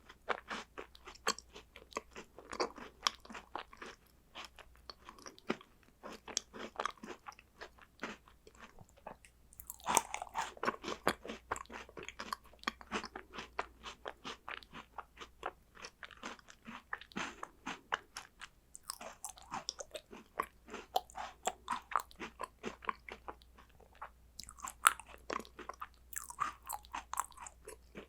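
Close-up crunching and chewing of crunchy chocolate snacks: a steady run of crisp crunches, with louder clusters about ten seconds in, near twenty seconds and again near the end.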